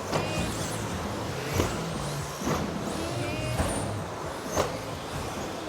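Radio-controlled electric modified trucks racing on a track: the whine of their motors rises and falls as they pass, with sharp knocks about once a second.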